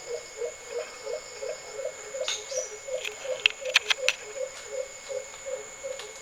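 Frog calling in a steady rhythm, about four short croaks a second, over the continuous high trill of crickets. A few sharp clicks come near the middle.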